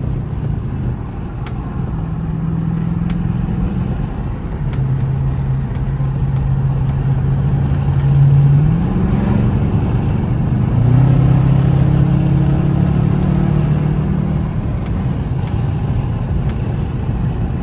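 Dodge Charger R/T's 5.7-litre HEMI V8 with its mid-muffler and resonators deleted, a deep exhaust drone heard through open windows while driving, over road and wind noise. The revs climb about eight seconds in and drop back about eleven seconds in.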